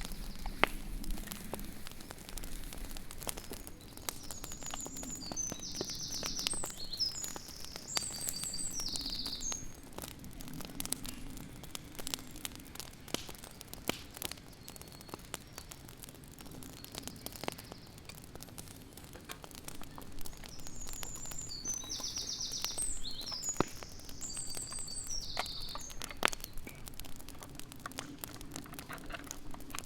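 A songbird sings the same phrase of quick high chirps twice, each song about five seconds long and the second about 17 seconds after the first, over scattered sharp crackles and clicks.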